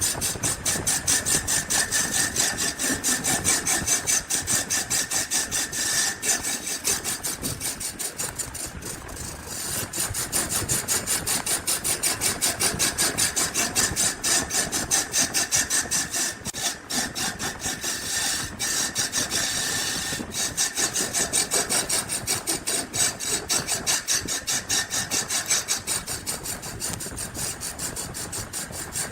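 Wood being worked with rapid, evenly repeated strokes, a dry scraping or rubbing, easing off briefly about a third of the way in and again about two-thirds of the way in.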